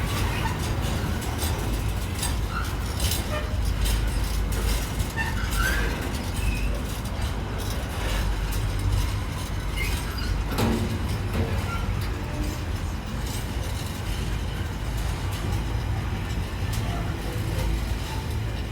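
Train rolling through on rails: a steady low rumble with many irregular clacks of wheels over rail joints.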